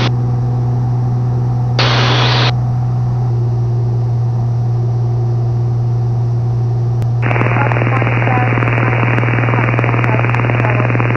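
Cessna 182's engine droning steadily as heard through the cockpit intercom. A short burst of hiss comes about two seconds in, and from about seven seconds in several seconds of radio static with no words: an open transmission on the ATC frequency.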